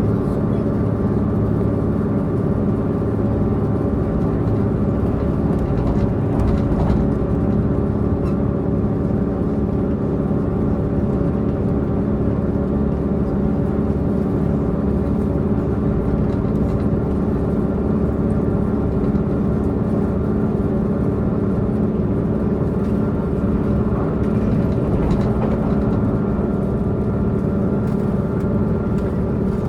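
Diesel multiple unit's underfloor diesel engine running steadily, heard from inside the carriage as an even, unchanging hum with a low rumble beneath it.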